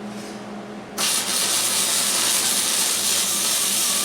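Welder laying a weld on a steel workbench frame: a loud, steady hiss that starts abruptly about a second in and cuts off sharply, over a low electrical hum.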